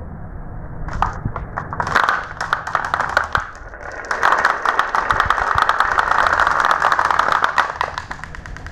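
Marbles rolling and clacking along a marble run track: a fast, dense patter of clicks that starts about a second in, is thickest from about four to eight seconds, and thins out near the end.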